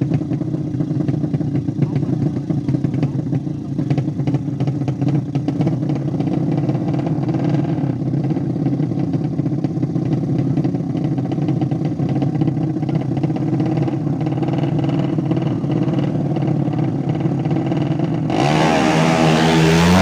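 200cc motorcycle engine running steadily at idle with a fast, even pulsing. Near the end a louder sound with wavering pitch joins it.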